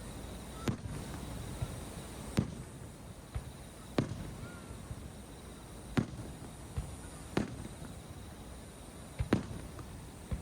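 Aerial firework shells bursting one after another in sharp bangs, about one every one and a half to two seconds, with a few fainter bangs in between.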